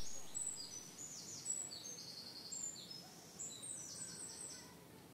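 Faint birdsong: small birds chirping in quick, high-pitched trilled phrases.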